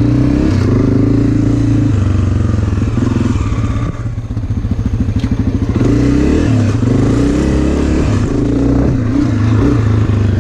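Dirt bike engine running while being ridden, its pitch shifting with the throttle. It drops to a slower, pulsing note about two to five seconds in, then picks up again.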